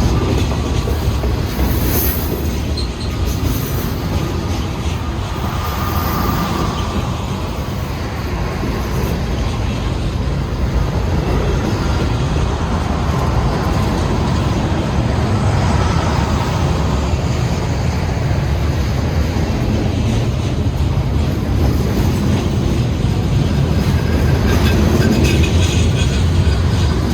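Freight train cars rolling past, a steady rumble of steel wheels on the rails. Brief high-pitched wheel squeals come and go, a few in the first seconds and more near the end.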